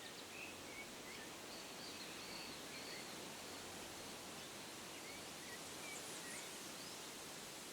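Faint, steady outdoor ambience: a soft even hiss with distant birds chirping now and then.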